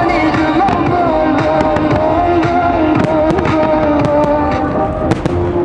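Fireworks popping and crackling in quick succession, a few sharper bangs near the end, over the display's music soundtrack with a held melody line.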